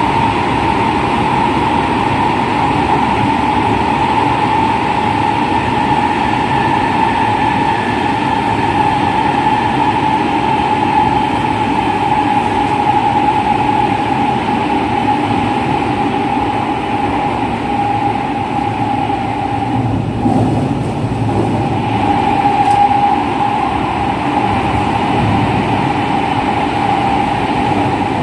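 Running sound of a JR West 207 series electric commuter train heard from on board: a steady whine from its original, unmodified traction motors over the rumble of wheels on the rails, at a fairly constant speed.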